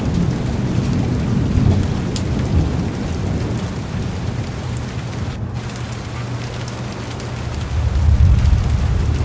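Heavy rain falling steadily on a car's window and body, with low rolling thunder rumbling underneath that swells again near the end.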